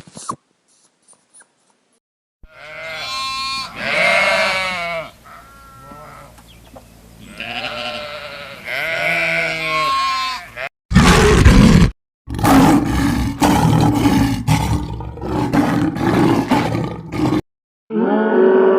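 Farm animal calls: a series of drawn-out, wavering cries in the first half, then a run of loud, rough, short calls, and another long call starting near the end.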